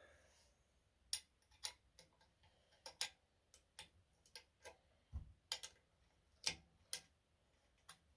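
Irregular sharp metallic clicks and ticks, about fifteen of them, from a coil spring compressor being worked, with one dull thump about five seconds in.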